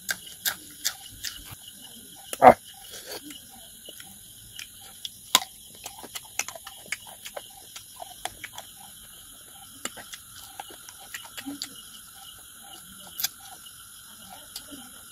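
A person eating by hand with loud open-mouthed chewing and lip-smacking: an irregular string of short smacks and clicks, the loudest a sharp smack about two and a half seconds in.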